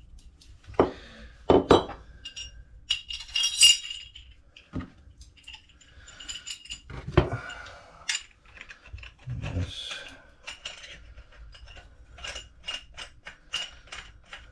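Metal pipe fittings and tools clinking and knocking as pieces are handled and fitted up, with several sharp knocks and, near the end, a run of small evenly spaced clicks.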